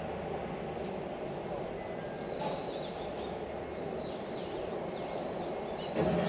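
Small birds calling in short, looping high chirps from about two seconds in, over a steady background of outdoor noise. A brief louder, lower sound comes near the end.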